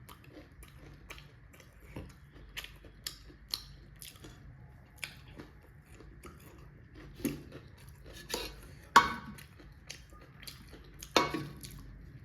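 Close-miked chewing and eating: irregular wet mouth clicks and light crunches, with two louder sharp clicks in the second half.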